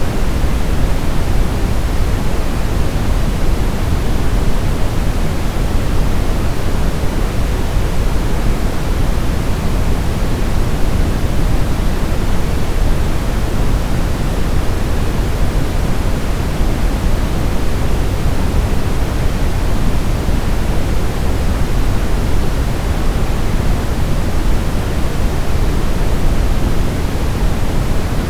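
Steady synthetic white-noise sleep sound: an even, unbroken hiss with its weight in the low end, closer to pink noise than pure white, holding a constant level without any change.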